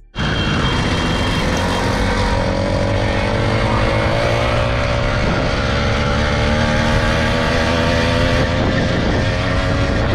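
Small gas motorbike engine running steadily while being ridden, its pitch creeping slowly upward.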